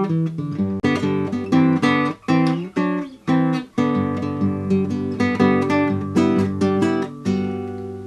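Acoustic guitar music, plucked and strummed notes in a steady run, fading out near the end.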